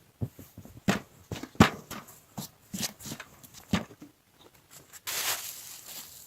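Dry twigs and tinder being snapped and handled for a campfire: a series of sharp, separate snaps, then about a second of rough rustling near the end.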